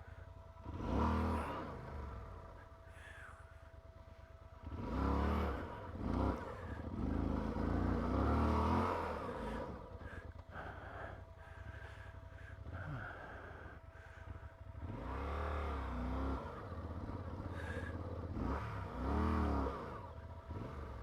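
Yamaha motorcycle engine revved hard in repeated bursts, each one rising and then falling back, between stretches of lower running. The rear wheel is spinning and digging into sandy loam as the rider works the bike free.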